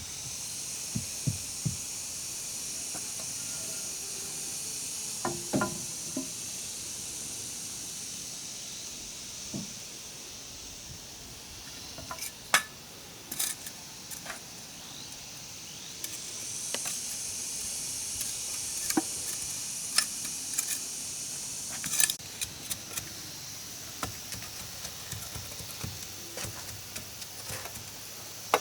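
Steady high-pitched insect drone that swells and fades, with scattered light clicks and a few sharper knocks of handwork on wood.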